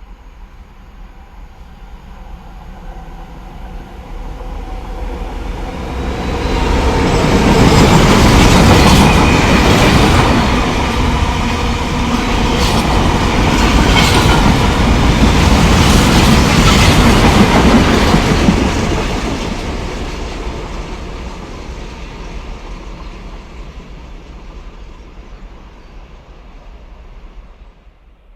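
A train passing close by: its rumble builds over several seconds, stays loud for about twelve seconds with wheels clicking over the rail joints, then fades away.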